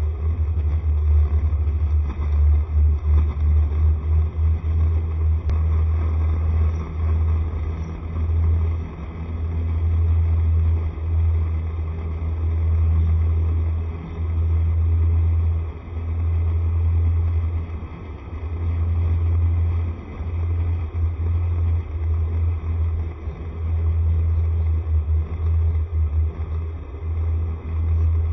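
Wind buffeting the microphone while riding a Honda SCR110 scooter, a heavy low rumble that swells and drops every second or two, with the scooter's engine and road noise underneath.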